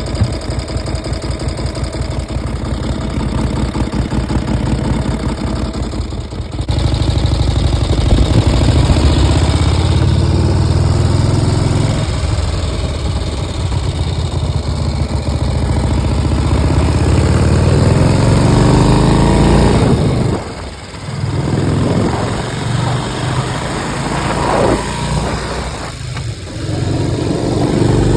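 1953 Harley-Davidson Panhead V-twin engine running with an even, loping beat, then opening up about six seconds in and pulling hard, its pitch rising as it accelerates. The throttle drops off briefly twice in the second half, as at gear changes, before it pulls again.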